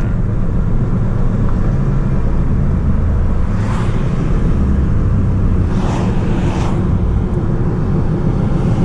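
Audi S3 8P's 2.0 TFSI turbo four-cylinder, fitted with an aftermarket downpipe, running steadily on the move: a low engine drone with road noise. Three brief hisses come through, about four, six and six and a half seconds in.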